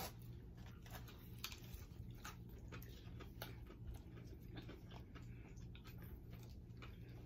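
Close-up chewing of crispy breaded chicken fingers: scattered faint crunches and mouth clicks over a low steady hum.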